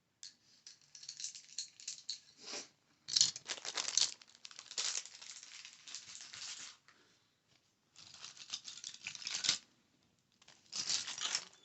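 Crinkly plastic or packaging being handled, in four bursts of crackling and crinkling with short pauses between them.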